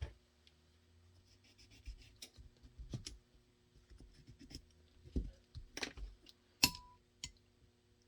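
Workbench handling noises as materials are positioned by hand: scattered light clicks, taps and rustles, the sharpest click about two-thirds in.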